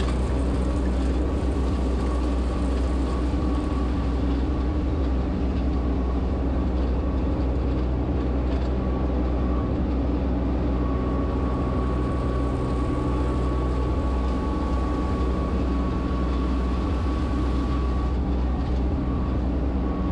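Solis H24 compact tractor's diesel engine running at a steady speed under way, with a thin steady whine above it.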